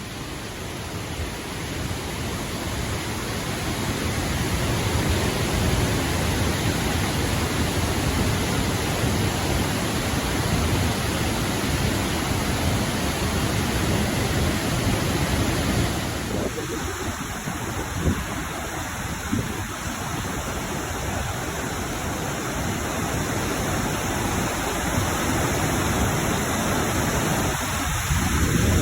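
Steady rushing noise of a waterfall, swelling over the first few seconds and easing off a little about halfway through.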